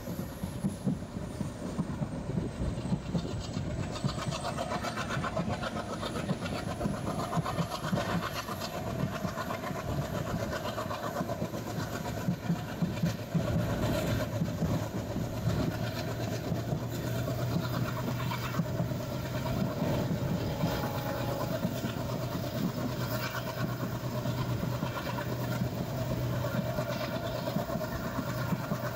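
Passenger express train running along the track, wheels clattering over rail joints over a continuous rumble. A low steady hum joins about halfway through.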